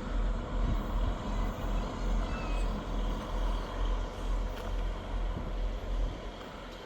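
Scotrail HST arriving, the diesel engine of its leading Class 43 power car running with a low, unevenly pulsing rumble and a faint steady hum above it.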